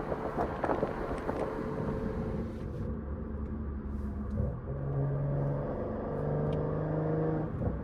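Straight-piped, catless BMW 540i B58 turbocharged straight-six cruising with a steady exhaust drone. Its tone steps to a new pitch a little past the middle.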